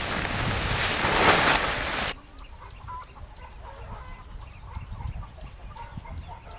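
A loud, steady rushing noise, wind on the microphone, cuts off abruptly about two seconds in. After it, chickens cluck and peep softly in many short chirps.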